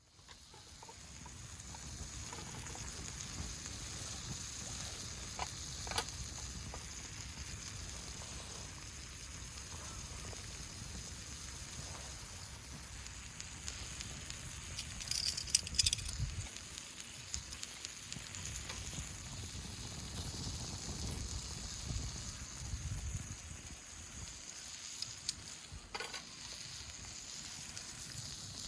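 Wood fire in a fire stand crackling with a steady hiss, with scattered sharper pops, the busiest cluster about halfway through.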